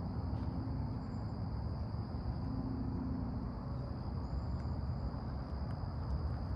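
Insect chorus, typical of crickets, holding a steady high-pitched drone over a low outdoor rumble, with a few faint high chirps.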